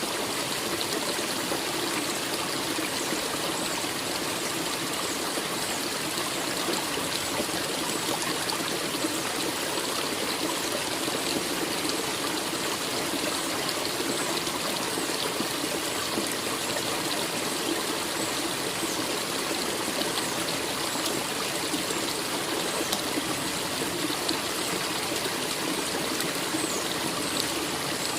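A forest stream flowing steadily: a continuous, even rush of running water.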